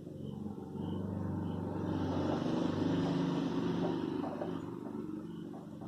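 A motor vehicle engine running with a low, steady hum. It grows louder to a peak about three seconds in, then fades.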